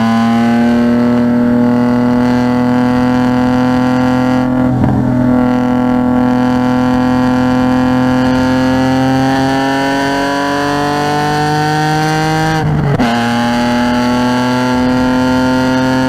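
Car engine pulling hard under acceleration, its note climbing slowly and steadily. There is a brief break about five seconds in, and an upshift near thirteen seconds drops the pitch before it climbs again.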